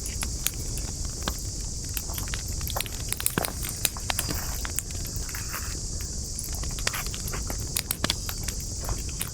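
Wood campfire crackling: irregular sharp pops and snaps over a steady high hiss.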